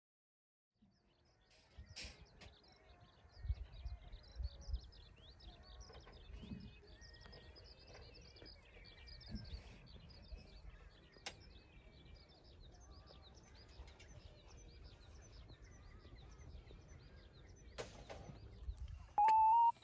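Outdoor ambience of many birds chirping, short calls overlapping continuously, over a low wind rumble with a few scattered knocks.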